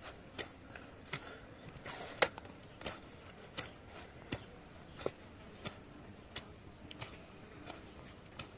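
A steady series of short, soft knocks, about one every 0.7 seconds, with one sharper knock about two seconds in.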